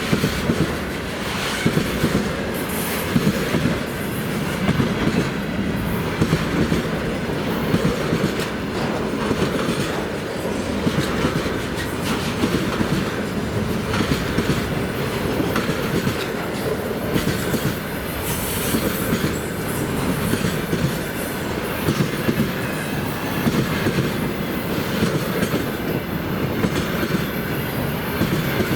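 Railway cars rolling past at speed, their wheels clacking over the rail joints in a steady repeating rhythm over continuous rolling rumble, with some wheel squeal.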